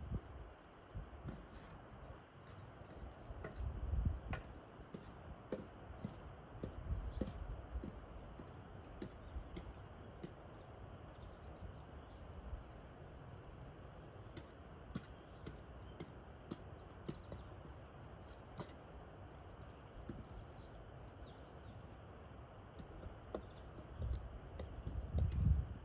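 Quiet birch-forest ambience: a soft steady rustle of leaves in the wind, with scattered small ticks and clicks and a few faint, distant bird chirps. Low rumbles rise briefly about four seconds in and again near the end.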